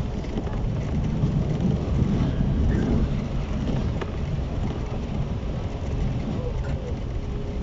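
JR East 115 series electric train standing at the platform, a steady low rumble and hum from the stopped train.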